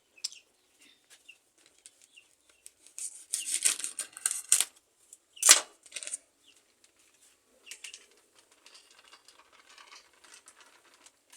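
A plastic flour package rustling and crinkling in irregular bursts as it is handled and emptied, with one sharp tap about five and a half seconds in.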